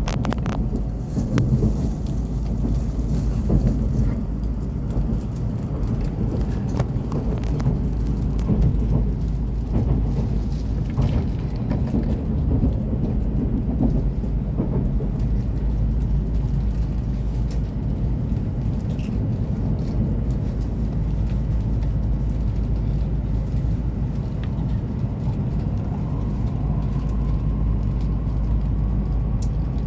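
Steady low rumble of a Hokuriku Shinkansen train running at speed, heard inside the passenger cabin, with scattered light knocks in the first half and a faint tone coming in near the end.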